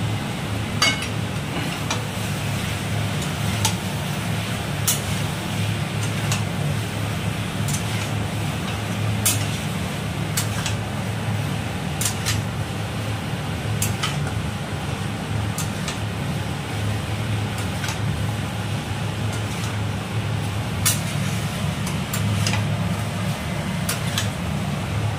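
A metal utensil clinking and scraping against a cooking pot at irregular intervals, over a steady low hum.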